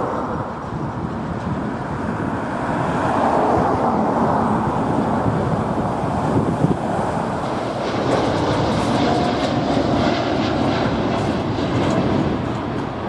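Steady rushing noise of jet airliner engines on take-off, mixed with wind on the microphone; a fine crackle joins in from about eight seconds in.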